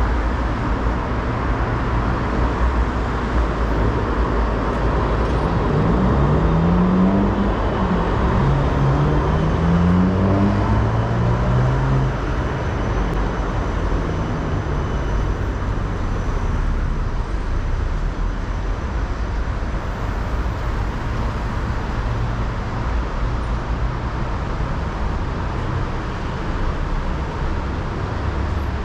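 City street traffic: a steady rumble of road vehicles, with one motor vehicle accelerating past between about six and twelve seconds in, its engine note rising in pitch several times in a row as it shifts up through the gears.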